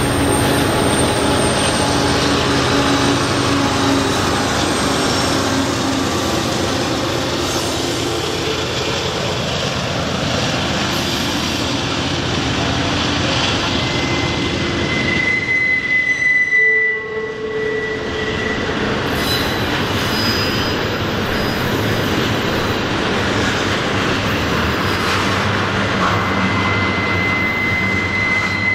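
Double-stack container freight train rolling past at close range: a steady rumble of steel wheels on rail, with mid-train diesel locomotives running during the first several seconds. A high, thin wheel squeal rings out about halfway through and again near the end.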